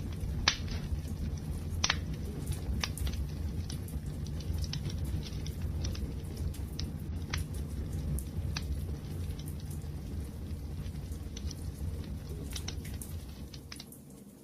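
Wood fire crackling: a steady low rumble of burning with scattered sharp pops, the two loudest in the first two seconds. The sound dips briefly near the end.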